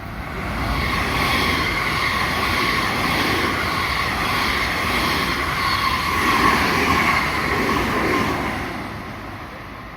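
JR Kobe Line electric train running along the station platform: the rumble of wheels on rail swells within the first second, holds for about eight seconds and fades near the end, with a steady high whine over it.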